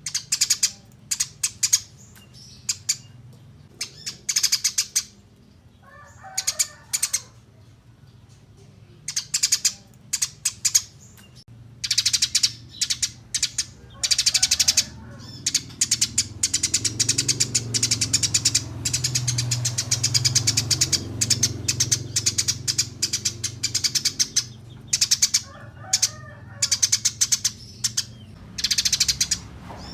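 Eurasian tree sparrows chirping in quick runs of short, sharp chirps. The bursts come every second or two at first, then run together into dense, near-continuous chatter through the middle, over a low background hum.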